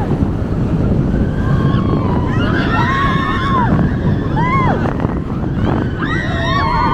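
Wind rushing over the microphone and the rumble of a roller coaster train running along its track, with riders' screams rising and falling about two seconds in and again near the end.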